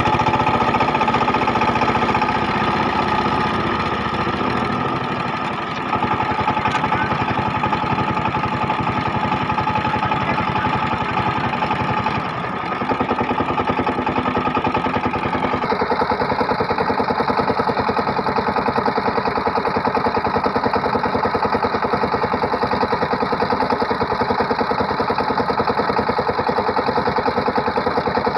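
Single-cylinder diesel engine of a SIFANG power tiller running steadily with a fast even chug, its tone shifting abruptly a few times.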